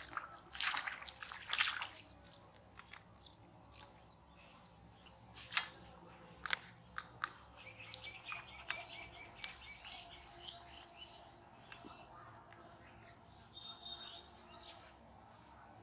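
Small birds chirping and calling, with many short rising and falling notes, busiest in the second half. A few brief sharp noises stand out, the loudest in the first two seconds.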